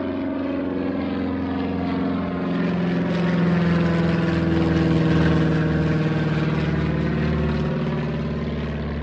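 Light propeller airplane passing low overhead, its engine and propeller drone swelling to a peak about halfway through and then easing off.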